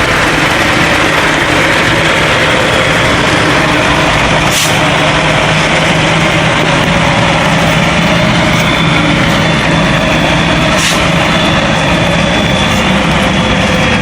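Logging truck's heavy engine running steadily, with two sharp clicks or knocks, about four and a half and eleven seconds in.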